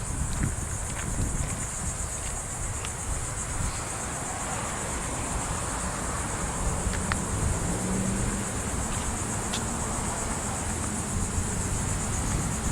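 Steady high-pitched drone of an outdoor insect chorus, over a constant low rumble.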